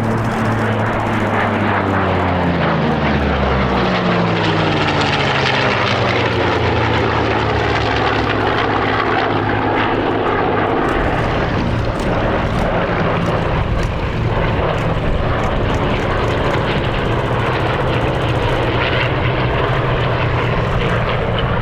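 Piston-engined propeller aircraft flying a three-ship tail chase. An engine note falls in pitch as one aircraft passes in the first few seconds, then settles into a steady, loud drone of engines and propellers.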